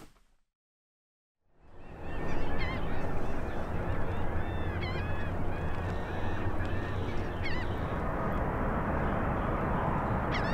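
After a second and a half of silence, birds call repeatedly in a run of short, arching calls over a steady background of rumble and hiss. The calls thin out after the middle, with a last one near the end.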